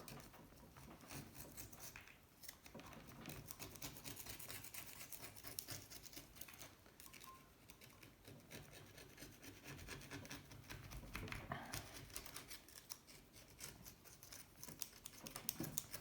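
Faint, rapid scratching and scraping of a tool working at caked grime and sand in a Honda C70 engine case.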